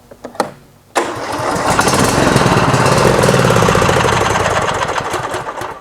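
A few light clicks, then about a second in the Cub Cadet XT1's Kohler engine starts suddenly and runs loudly, fading out near the end. It is run after an oil and filter change to fill the new filter with oil.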